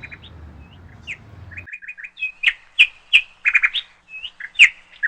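Small birds chirping: short, sharp, high chirps, a few at first and then many in quick runs. A low background rumble stops abruptly about a second and a half in.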